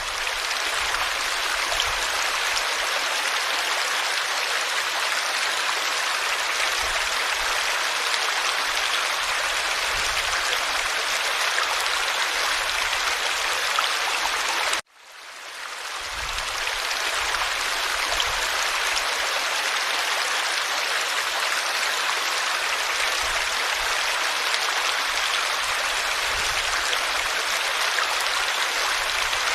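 Forest stream water flowing and splashing in a steady rush. About halfway through, the sound cuts out abruptly and fades back in, like a loop joint in the recording.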